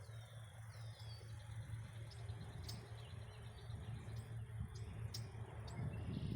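Faint wild bird calls in a wetland: a few short, high, downward-sliding chirps and scattered ticks over a steady low hum.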